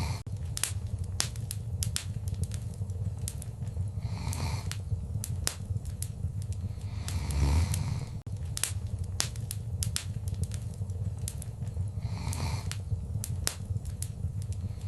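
Wood fire in a fireplace crackling, with frequent sharp pops over a steady low rumble. A few louder hissing flare-ups come every few seconds, the strongest about halfway with a low thump, and the pattern repeats about every eight seconds.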